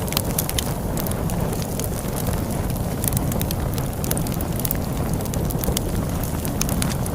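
Log fire crackling, with frequent sharp pops and snaps, over a steady low rumble of storm wind.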